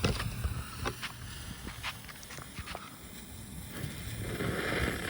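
A few scattered clicks and knocks over wind on the microphone. About four seconds in, the Sky Bacon Cobra spinning fountain firework starts a steady hiss as it ignites.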